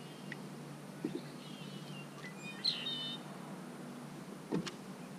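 A bird calling with short series of high chirping notes, loudest about two and a half seconds in, followed by a single knock near the end.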